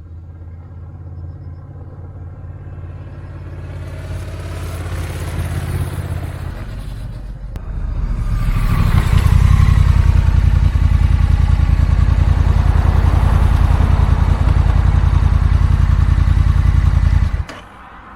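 Honda Rebel 1100's parallel-twin engine and exhaust running while riding. It starts moderate with rising wind noise, becomes much louder from about eight seconds in, then cuts off suddenly near the end.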